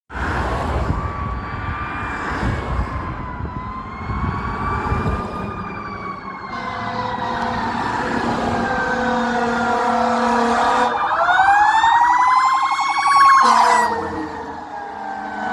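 Fire apparatus sirens wailing, sweeping slowly up and down in pitch. About eleven seconds in, a louder siren winds up sharply, breaks off a couple of seconds later, then winds slowly down in pitch.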